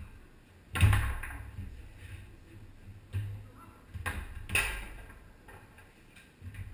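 Foosball play on a Tornado table: sharp knocks of the ball being struck by the rod-mounted players and hitting the table, the loudest a little under a second in, followed by several more over the next few seconds.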